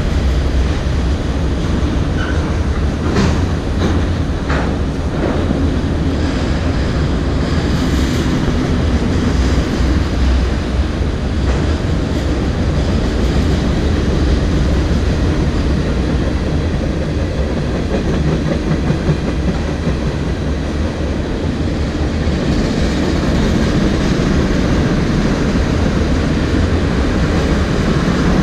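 Train rolling past, its steel wheels clacking over the rail joints in a steady rumble, with a few sharp clicks a few seconds in.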